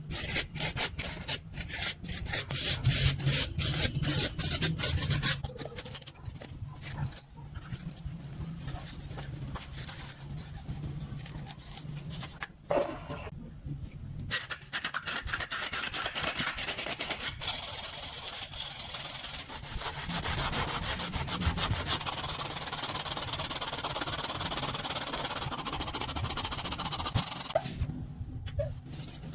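Hand tool scraping and filing metal: rapid back-and-forth strokes for the first five seconds, then sparser strokes, then a steadier, even scouring noise from about seventeen seconds in.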